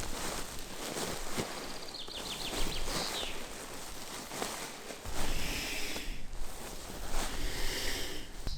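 Forest ambience with rustling and clicks, and a bird giving a quick descending trill about two seconds in, with more high bird notes near the end.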